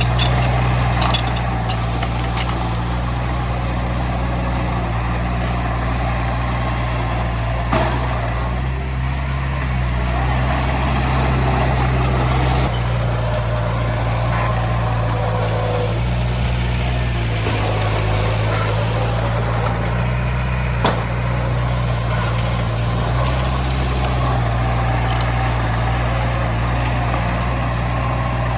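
Heavy diesel engine of earthmoving equipment running steadily, its pitch shifting a few times as the load or throttle changes. Two sharp knocks are heard, one about a third of the way in and one about three quarters of the way in.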